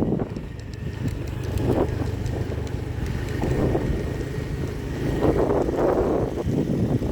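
A vehicle running steadily on the move, a low rumble with wind gusting on the microphone.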